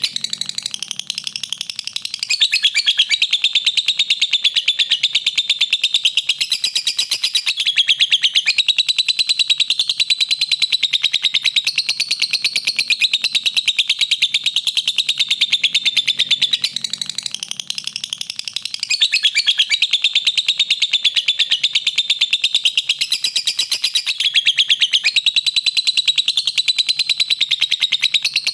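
Lovebird chattering: an unbroken run of rapid, high chirps, easing off briefly about two seconds in and again about seventeen seconds in. It is the kind of masteran recording played to tutor caged songbirds.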